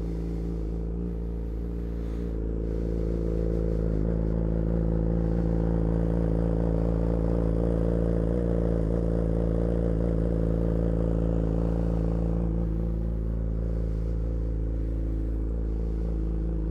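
Motorcycle engine idling steadily just after start-up, already warm rather than on a cold start. It gets a little louder a few seconds in and eases back a bit near the end.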